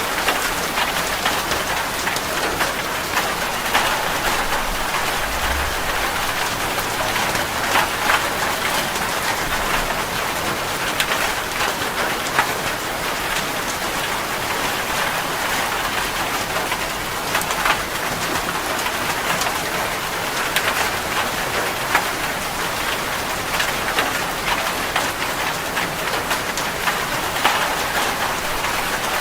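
Steady rain falling, a continuous hiss with many individual drop hits ticking through it.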